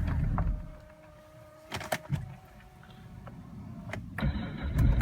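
BMW 535d E60's twin-turbo straight-six diesel switching off, then two clicks from the ignition and, about four seconds in, the starter cranking and the engine catching on a cold start at about −7 °C. The owner finds the starter motor a little weak and due for replacement.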